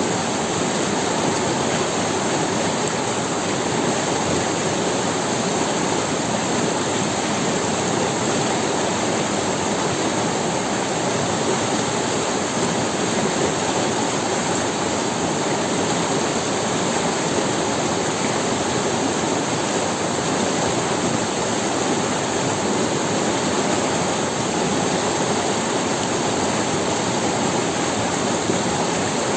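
Forest river water rushing over stones, a steady, even flow with no changes.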